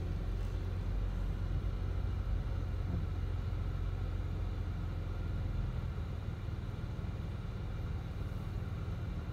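Car engine running at low revs, heard from inside the cabin as a steady low rumble.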